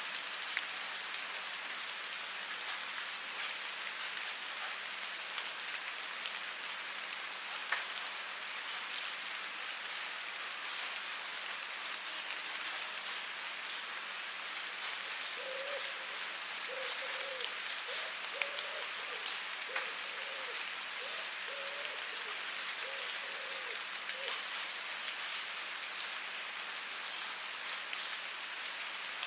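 Steady rain falling, an even hiss with scattered sharper drop ticks. Midway a faint series of short pitched sounds comes and goes under the rain.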